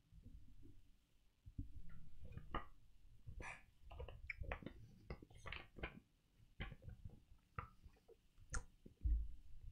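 A person chewing a mouthful of soft, bready muffin-like cake close to the microphone: faint, irregular mouth clicks and low thumps.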